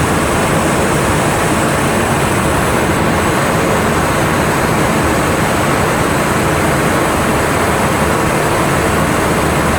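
Steady rushing cockpit noise of a Boeing 737NG flight deck in cruise: airflow noise with no change in level.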